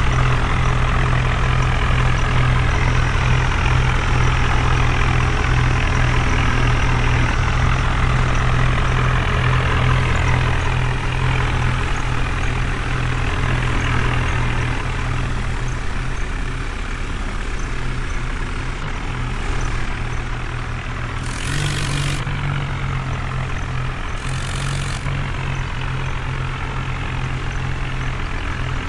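Heavy truck engine running steadily. Its note eases off about halfway through and picks up again, with two short hisses a few seconds apart in the latter part.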